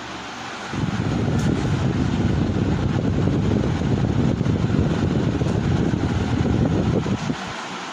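Airflow from a running Solaster ceiling fan buffeting the microphone as a loud, gusty low rumble. It starts suddenly about a second in and stops shortly before the end, leaving the fan's steady hiss.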